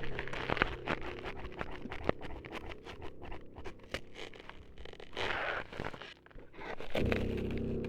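Close-up ASMR scraping and scratching on the microphone, meant as ears being cut up, with many sharp clicks over a steady low hum. A short hissing scrape comes about five seconds in, and the sound thickens again near the end.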